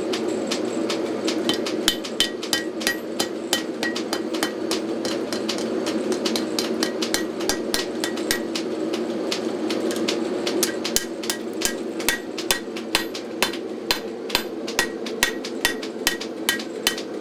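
Hammer blows ringing on steel at the anvil as 5160 spring steel is forged, over a steady roar from a gas forge. About eleven seconds in, the blows settle into an even beat of roughly two a second.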